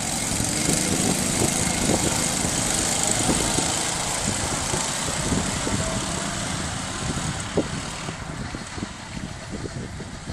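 Go-kart engines running, loudest over the first few seconds, then fading from about eight seconds in.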